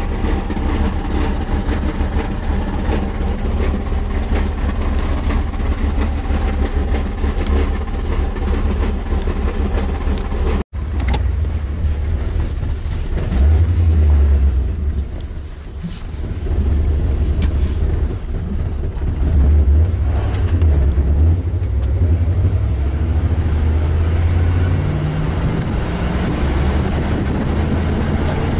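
A Chrysler Cordoba's engine running, heard from inside the car: a steady engine tone for about ten seconds, then, after a sudden break, the car driving along with low engine and road noise. Near the end the engine pitch rises as it accelerates.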